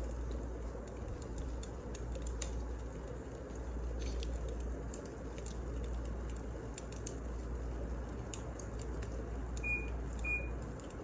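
Wood fire crackling: scattered sharp pops over a steady low rush. Two short beeps sound close together near the end.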